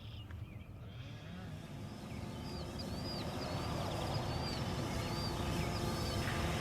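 Small birds chirping in a quick repeated figure over a low outdoor rumble that grows louder over the first few seconds.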